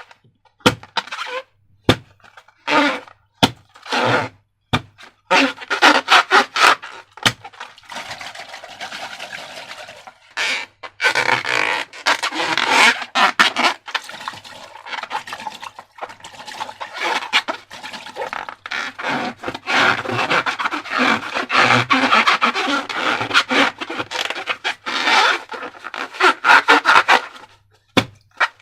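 Slime being handled and mixed: wet, sticky crackling and squishing, packed with fine clicks. The first few seconds hold separate sharp clicks and short noisy bursts, and the rest is near-continuous crackle.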